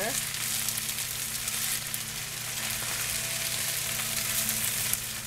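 Chicken fried rice sizzling in a frying pan, a steady hiss peppered with small crackles, over a low steady hum.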